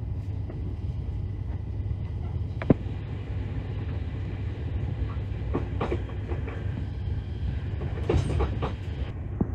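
Steady low rumble of a moving passenger train heard from inside the carriage. Sharp clacks from the wheels on the track come once about a third of the way in, loudest of all, then in a short cluster around the middle and again near the end.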